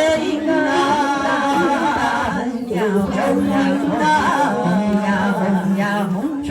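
Wordless ritual chanting: a voice holding long, drawn-out vowel tones with slow slides in pitch.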